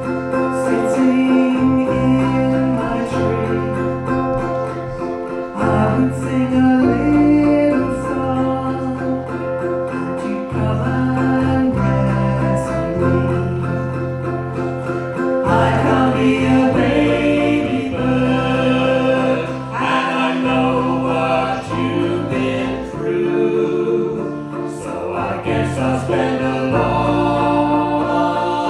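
Folk band playing live, with several voices singing together in harmony over guitar.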